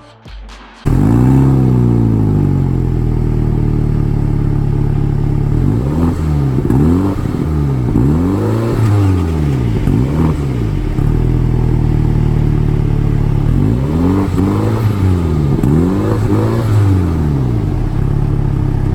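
2019 MINI John Cooper Works Hatch's turbocharged 2.0-litre four-cylinder engine starting about a second in, flaring and settling to idle. It is then revved in two sets of quick throttle blips, about four each, with idle between and after, heard through its exhaust.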